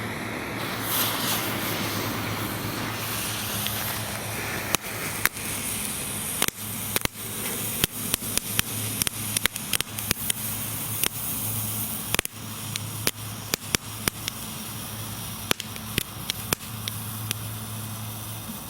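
Small ground fountain firework burning: a steady spraying hiss of sparks, with many sharp crackles snapping through it from about four seconds in.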